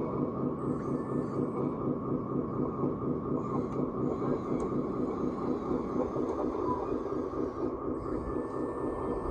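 Electric drive motors and hydraulic pump of a large radio-controlled construction model running steadily, with a fast fluttering whir.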